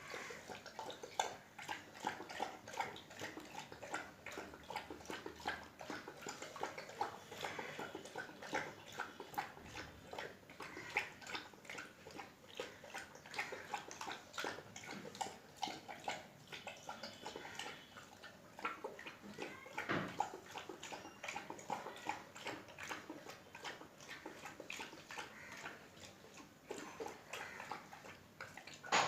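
Saint Bernard dog eating from its bowl: a dense, irregular run of quick wet clicks and smacks from its mouth.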